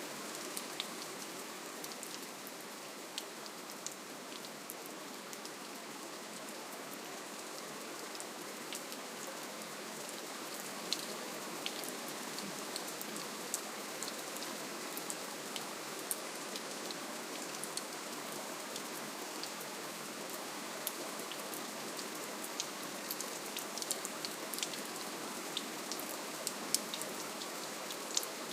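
Steady, gentle rainfall: an even hiss with many separate drops pattering and ticking on surfaces.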